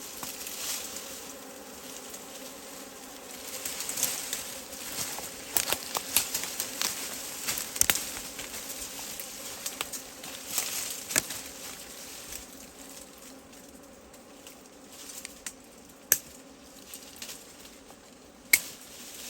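Wild honeybee colony buzzing in a steady drone, with many sharp clicks and crackles over it, thickest in the middle and with two louder single clicks near the end.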